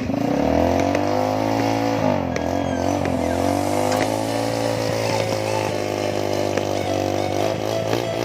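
Small motorcycle engine revved and held at high revs, its pitch rising at the start and dropping briefly twice as the throttle is eased and opened again.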